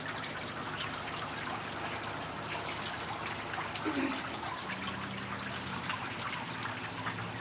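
Steady rain falling, with water trickling and dripping.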